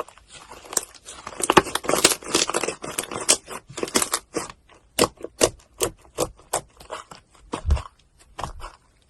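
Slime being pressed and squeezed by hand, crackling and popping. A dense run of crackles in the first half gives way to separate sharp pops about every half second.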